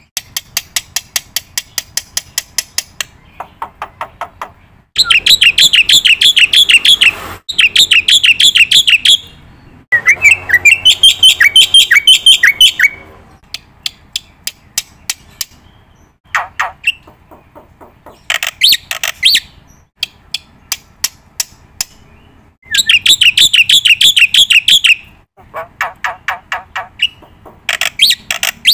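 A bird singing: loud phrases of rapid repeated chirps and fast trills, each a few seconds long, with short pauses between them.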